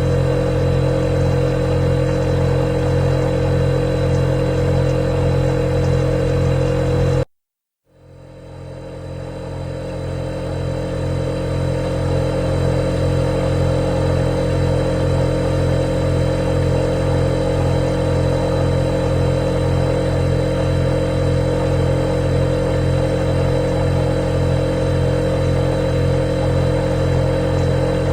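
Refrigerator running with a steady hum. About seven seconds in it cuts out completely for about half a second, then swells back up to full over the next few seconds.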